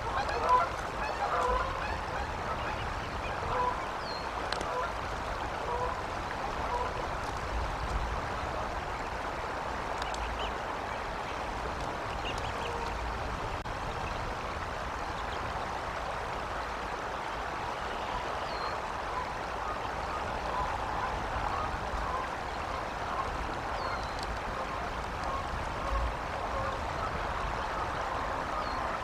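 Bird calls: short honking calls repeat through the first few seconds and again near the end, with a few thin high chirps in between, over a steady outdoor hiss.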